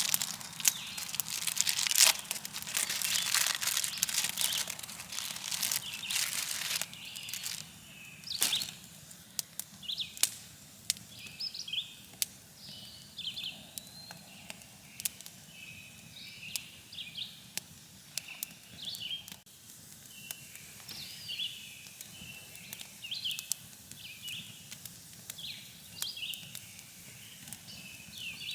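Crinkling and rustling for about the first seven seconds, then small birds chirping over and over, each call a short rising-and-falling chirp.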